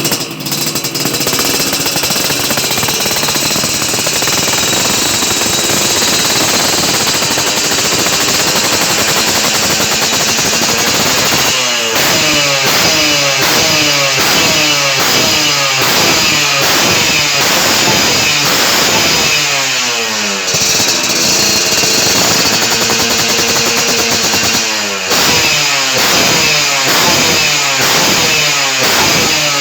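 Yamaha RX-King's single-cylinder two-stroke engine running through a 'Lobster' aftermarket racing exhaust. It holds a steady, raspy note at first, then from about halfway through it is revved up and let fall back again and again.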